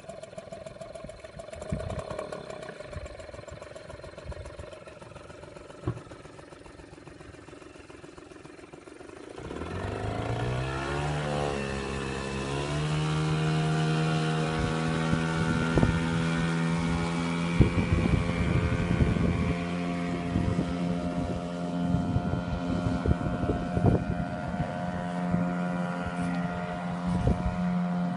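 HDX 4 hp outboard motor running quietly at low throttle, then opened up about ten seconds in. Its pitch rises over about three seconds and then holds steady and louder as the boat gets under way, with scattered knocks and splashes over the steady engine note.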